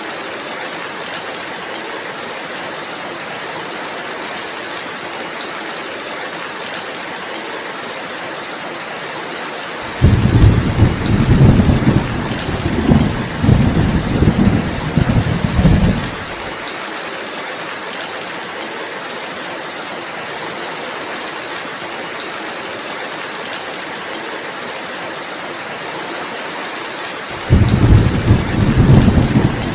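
Steady rainfall with a low rumble of thunder rolling for about six seconds near the middle, and another roll beginning just before the end.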